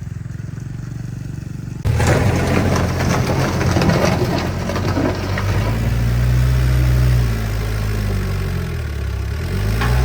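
A vehicle engine running. About two seconds in, loud rattling, rushing noise starts suddenly over it, and later the engine's pitch rises and falls.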